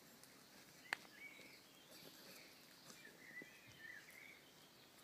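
Near silence: faint bird chirps in the background, with one sharp tap about a second in.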